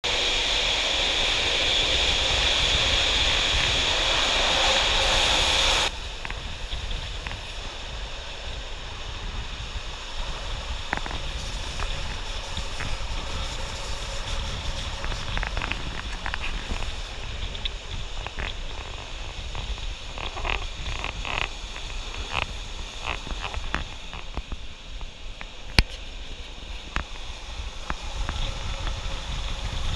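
Steady rumble of a Rhaetian Railway passenger train running along the track, heard from an open window with wind on the microphone, with scattered light clicks and one sharp click late on. A louder hissing noise fills the first six seconds and cuts off suddenly.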